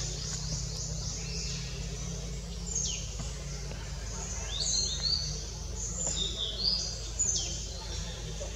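Wild birds chirping: a quick run of high notes, then several high whistled calls that slide downward, the loudest a little over halfway through, over a steady low hum.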